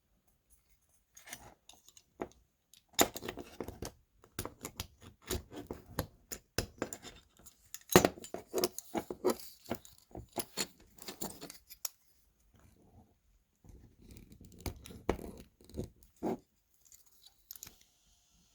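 Small irregular clicks, taps and scrapes of a diecast toy car and its plastic parts being handled and pried at, with one sharper click about eight seconds in and a short pause a little past the middle.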